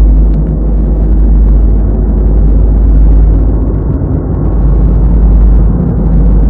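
Loud, deep steady rumble with a low droning hum under it, dipping briefly about four seconds in: an ominous drone in a film soundtrack.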